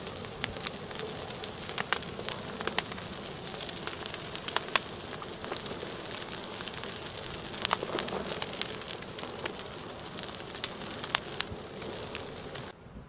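Active lava flow crackling: many sharp, irregular cracks and pops over a steady hiss, as the cooling crust breaks and burns.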